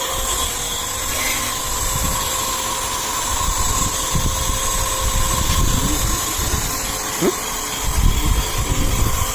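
Electric pressure-washer pump running steadily with a constant whine while its water jet hisses onto an air conditioner, with irregular low rumbling from the spray and handling.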